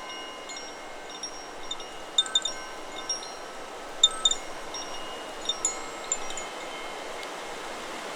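Chakra Chimes 'Solar Plexus' wind chime struck by the wind: its tubes ring in overlapping, lingering high tones, with a cluster of sharper strikes between about two and six seconds in. Wind and rustling leaves make a steady hiss underneath.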